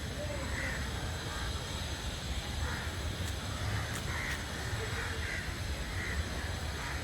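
Birds calling, with short calls repeated every second or so over a steady low rumble.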